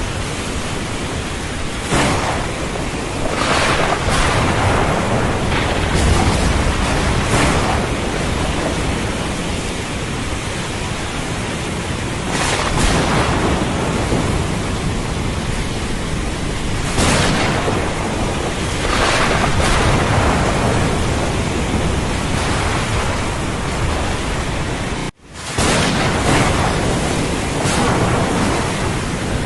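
Thunderstorm over the ocean: heavy rain and low rolling thunder mixed with surf, a dense wash that swells every few seconds. Near the end the sound cuts out for a moment.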